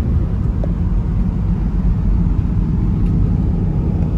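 Car on the move: steady low road and engine rumble.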